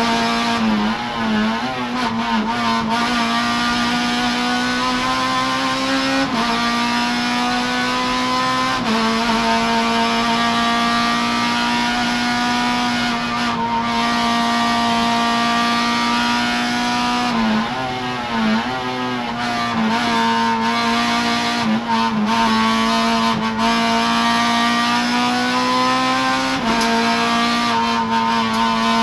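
Honda Civic Type R EP3's 2.0-litre i-VTEC four-cylinder engine running hard at high revs under full load, heard from inside the stripped race cabin. The engine note holds high for long stretches, and several times it steps in pitch at gear changes or wavers briefly as the throttle is lifted for corners.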